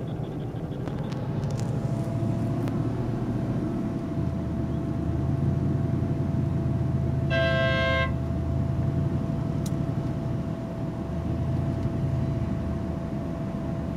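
Steady engine and road rumble of a car driving in slow traffic, heard inside the car, with one short car-horn honk about halfway through.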